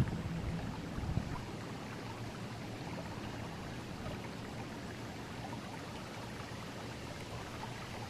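Forest river flowing: a steady, even rush of running water with faint small splashes. A low rumble in the first second or so fades out.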